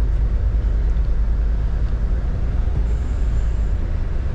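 Steady low rumble of a box truck's diesel engine and road noise heard inside the cab while driving slowly in traffic.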